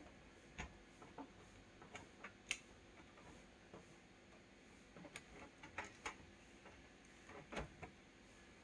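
Faint, irregular light clicks and taps, about a dozen, the sharpest about two and a half seconds in, from small hand tools being handled on a workbench during soldering work.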